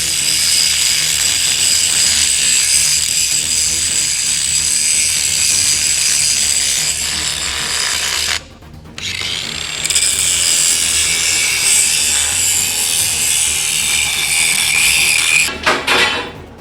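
Power grinder cutting down steel bolt studs flush with a concrete slab, a loud, steady, high-pitched grind. It stops for about a second just past halfway, starts again, and stops near the end with a few knocks.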